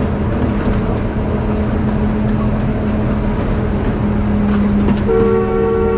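Akasawa Forest Railway train running, a steady engine drone over the rumble of wheels on the rails; about five seconds in its horn starts a long, steady blast.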